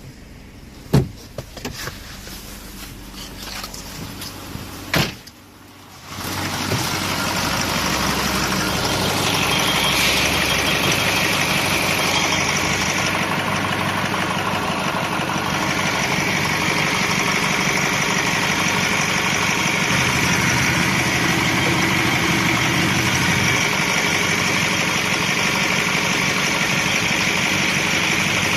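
Nissan Primera's YD22DDT 2.2 dCi four-cylinder turbodiesel starting about six seconds in, after two sharp clicks, then idling steadily.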